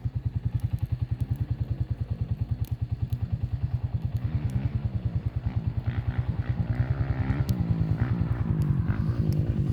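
Motorcycle engine idling nearby, a steady low pulsing of about ten beats a second.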